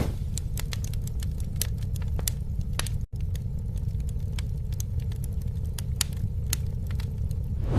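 Campfire crackling, with frequent sharp, irregular pops and snaps over a steady low rumble. The sound cuts out for a split second about three seconds in.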